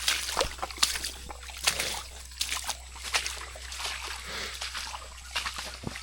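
Footsteps and rustling through wet rainforest undergrowth: an irregular run of crunches and swishes over the steady hum of the forest.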